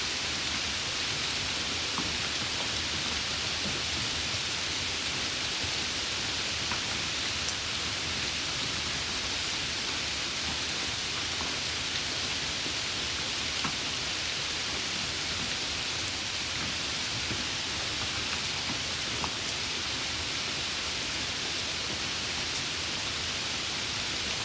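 Heavy rain falling steadily, with scattered sharper ticks of single drops.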